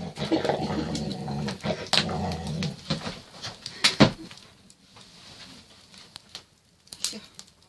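A Rottweiler vocalizing for the first few seconds, with a few sharp knocks, the loudest about four seconds in. After that it is quieter.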